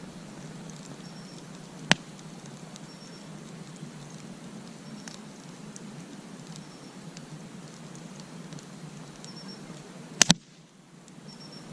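Wood campfire burning over a steady low hiss, with a sharp pop about two seconds in and a louder double crack near the end.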